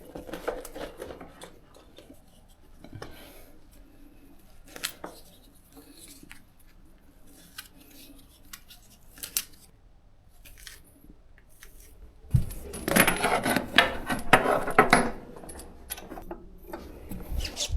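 Small metal objects handled: scattered light clicks and clinks, then a denser stretch of clattering lasting a few seconds about two-thirds of the way through.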